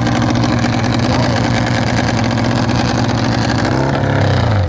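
Nitro-fuelled Triumph hill-climb motorcycle engine running loud and steady. Near the end its pitch drops and the sound cuts off abruptly.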